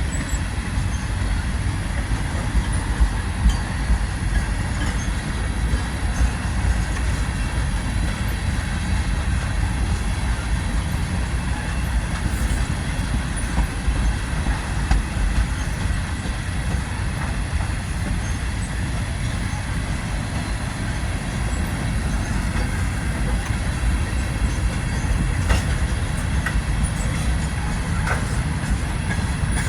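Tank cars of a slow freight train rolling steadily through a tight curve: a continuous wheel rumble with scattered clicks over the rail joints and faint wheel squeal.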